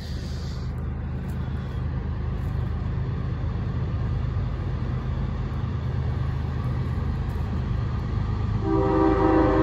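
Approaching CSX freight train's diesel locomotive: a steady low engine rumble that slowly grows louder. Near the end the locomotive's air horn starts to blow, a held chord of several notes.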